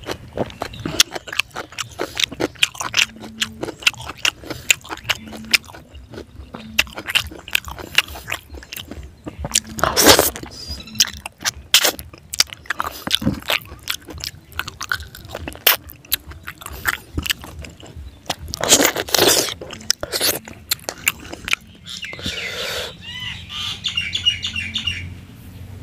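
Close-up eating sounds of fried fish head being eaten by hand: wet chewing, crunching of bones and lip smacking, with a couple of longer, louder noisy bursts. A bird chirps near the end.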